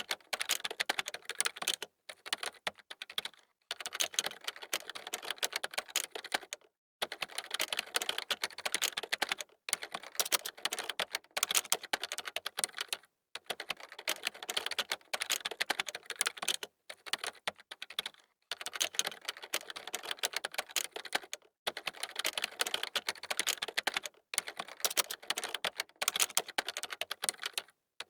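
Fast typing on a computer keyboard: dense runs of key clicks a few seconds long, broken by short pauses.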